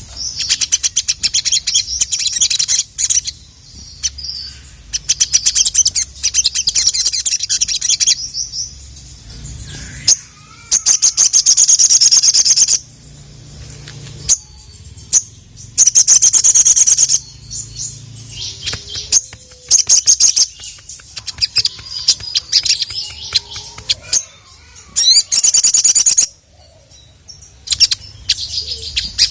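Sogon (sogok ontong) sunbird singing: loud, rapid, high-pitched trilling phrases of one to two seconds each, repeated again and again with short pauses between.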